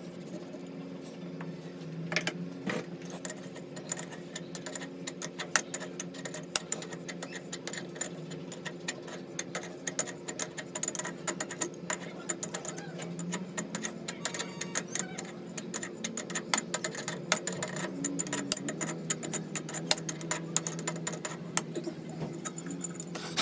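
A workshop machine running with a steady hum, overlaid by fast, irregular clicking and ticking.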